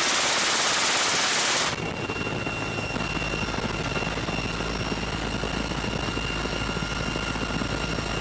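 A loud, even rush of noise stops abruptly about two seconds in. It gives way to a military helicopter in flight: the steady whine of its turbine engines over the low throb of the rotor.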